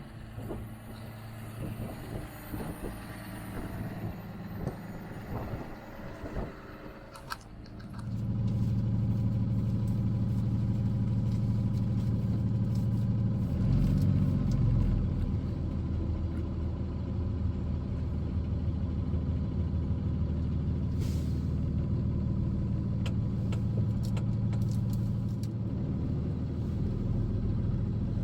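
Box truck engine and road noise: scattered knocks and rattles at first, then about eight seconds in a loud, steady low engine drone sets in and carries on as the truck drives.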